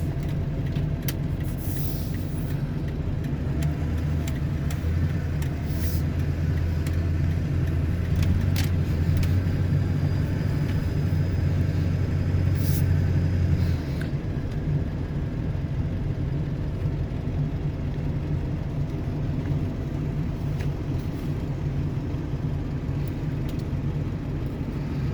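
Ford F-350 pickup heard from inside the cab while driving, with a steady low engine and road drone. The drone grows heavier from about three seconds in, then eases off abruptly about halfway through.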